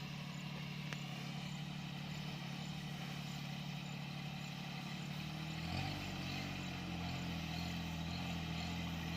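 Mini tractor engine running steadily; about six seconds in, its note shifts and a deeper rumble comes in.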